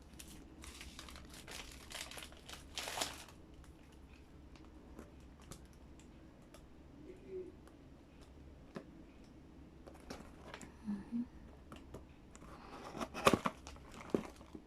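Plastic packaging crinkling and rustling as it is handled and pulled open, in two spells, a short one near the start and another near the end, with scattered light clicks and taps between.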